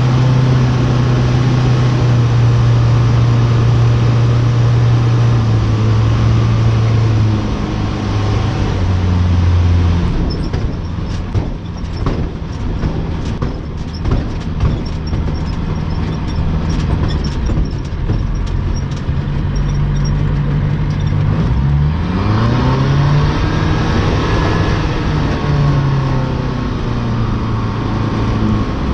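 Light aircraft's piston engine and propeller running loud and steady, with shifts in pitch; a stretch of rattling knocks in the middle, and the engine note rising and falling again near the end.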